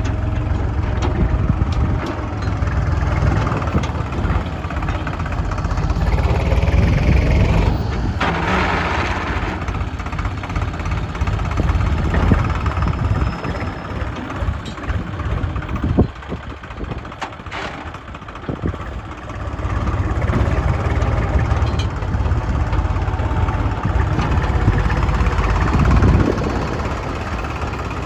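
Diesel engines of a JCB 3DX backhoe loader and a tractor running during sand loading. The engine note rises and falls with the work and drops quieter for a few seconds in the middle.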